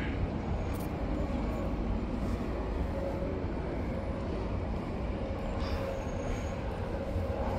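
Steady low rumble of a train approaching, with a faint steady whine that comes in about three seconds in and grows a little near the end.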